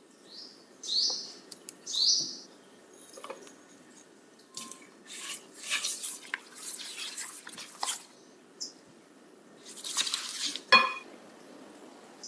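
Kitchen utensils and bowls being handled during baking prep: a spoon or spatula scraping and clinking against a bowl. There are short strokes near the start, a run of scrapes in the middle, and a sharp clink near the end.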